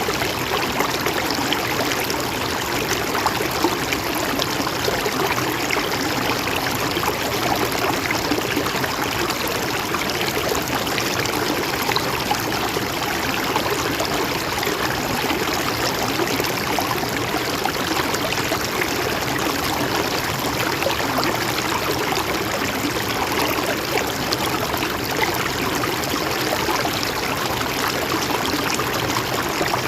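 Mountain stream running steadily, a continuous rush and trickle of water over rocks.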